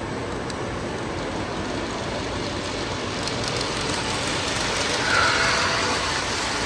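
Model train running along a layout's track, getting louder about four seconds in, with a brief squeal about five seconds in.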